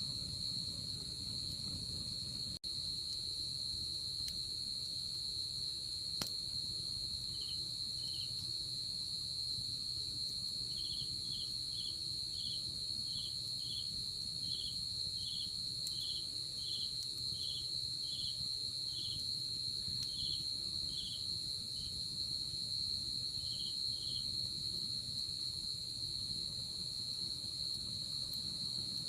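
Night insect chorus: crickets and other insects keep up a steady high, shrill trill, while a second insect calls in evenly spaced lower chirps, about one and a half a second, through the middle of the stretch.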